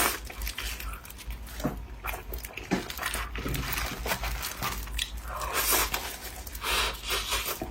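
Close-up eating sounds: a person biting into and chewing glutinous rice cake, with wet clicks and short bursts of mouth noise.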